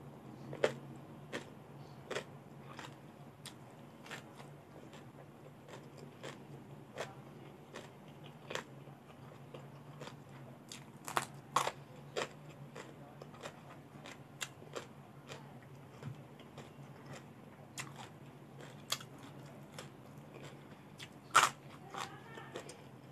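Close-miked crunching and chewing of raw vegetables, a string of sharp crisp crunches at irregular intervals, loudest near the end, over a faint steady low hum.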